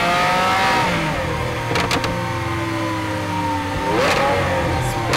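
Lamborghini Aventador's 6.5-litre V12 with a custom exhaust revving up, easing off with the pitch falling slowly for about three seconds, then blipped sharply again about four seconds in. A few sharp cracks come through around two seconds in and near the end.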